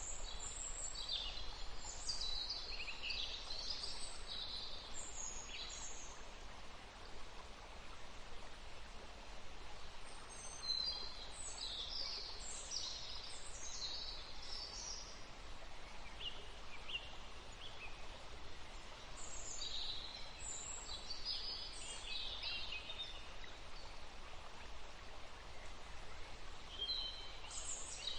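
Small birds chirping in flurries of quick high-pitched notes, coming in several bursts with short lulls between, over a steady outdoor hiss.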